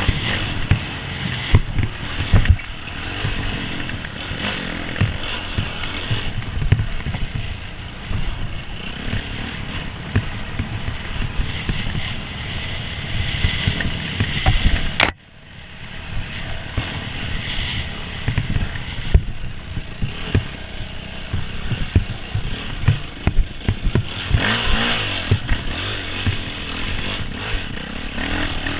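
Hercules enduro motorcycle running as it is ridden off-road, with frequent low thumps and knocks throughout. The sound breaks off with a sharp click about halfway through, then carries on.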